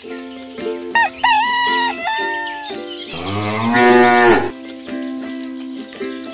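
Cow mooing several times over background music, the longest and loudest moo about three to four seconds in.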